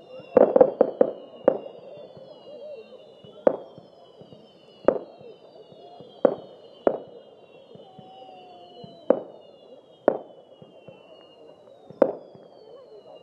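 Fireworks display: a quick cluster of sharp bangs about half a second in, then single bangs every one to two seconds, under many overlapping high whistles that slowly fall in pitch.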